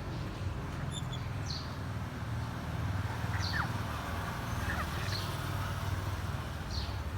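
Short, faint, high bird chirps, each falling in pitch, come roughly every one and a half to two seconds, with a couple of lower falling whistles about halfway through. Under them runs a steady low rumble.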